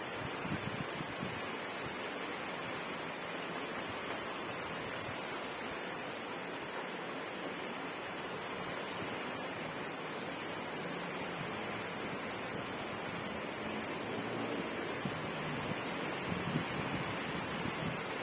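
Steady rain falling, an even hiss with no individual drops standing out, and a thin high steady tone running through it.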